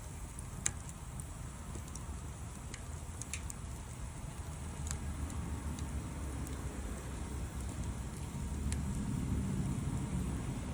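Campfire burning: a low steady rumble with scattered sharp crackles and pops from the wood, one loud pop about a second in. The rumble grows louder over the last few seconds.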